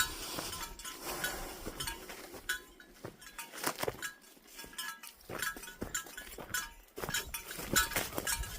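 Footsteps on a forest trail with light metallic clinking and jingling among them, at an irregular pace.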